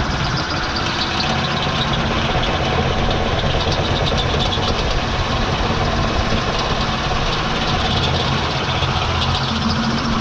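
Handheld power tool running steadily under load, enlarging a drilled hole in a sheet-steel truck fender so the turn-signal light will fit.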